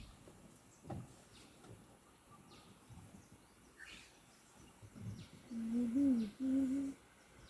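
Faint outdoor background, then two short, low, pitched animal calls near the end, the first bending up and back down, the second held steady.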